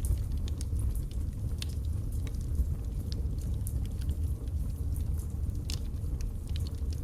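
Wood fire burning in a fireplace: a steady low rumble of flames with frequent short, sharp crackles and pops from the burning logs, scattered irregularly.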